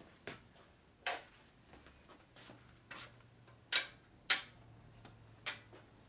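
Metal setup pieces and clamp parts clinking and knocking as they are handled and set down on a metal work surface: about seven sharp separate knocks with gaps between them.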